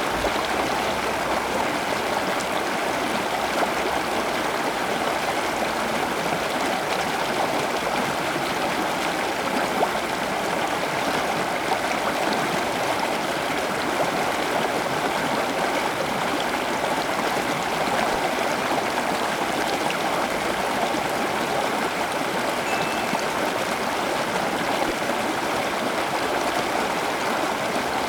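Steady sound of running water, even and unbroken.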